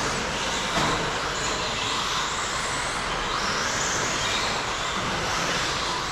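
Radio-controlled stadium trucks racing on a track: a steady wash of small electric motors and tyres, with high whines rising and falling as the trucks speed up and slow down.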